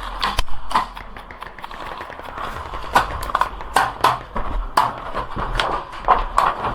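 Footsteps on a hard surface: irregular sharp steps, roughly one to two a second, over a faint low hum.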